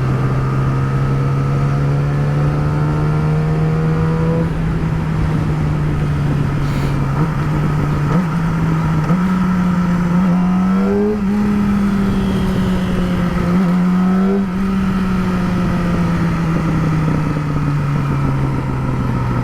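Yamaha R6 inline-four sport bike with a slip-on exhaust running steadily under way, its pitch slowly creeping up, with a few quick dips and jumps in engine speed around the middle.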